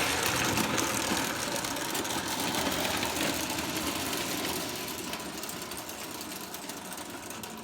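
Prewar O scale toy electric train running on the layout track, its motor running steadily with the wheels clicking over the rails; it grows quieter after about five seconds.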